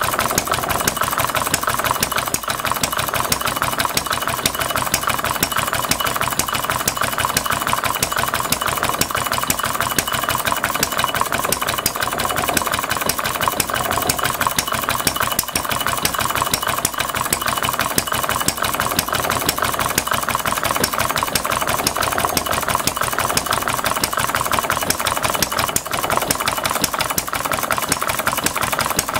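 Scale-model open-crank stationary engine running steadily on propane, with rapid, even popping from its firing strokes.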